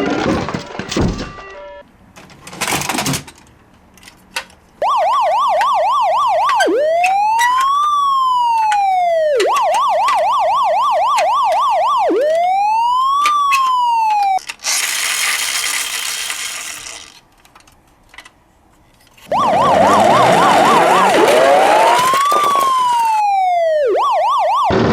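Electronic emergency-vehicle siren, as on a toy police car or ambulance, switching back and forth between a fast warble and a slow rising-and-falling wail. It breaks off for a loud burst of hissing noise partway through, then comes back over rougher noise near the end.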